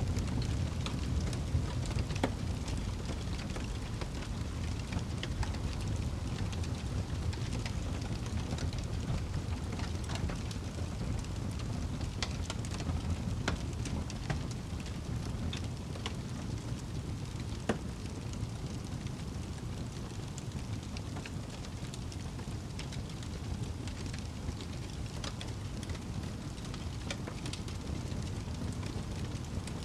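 Fire in a fireplace crackling, with irregular sharp pops over a steady low rumble of burning.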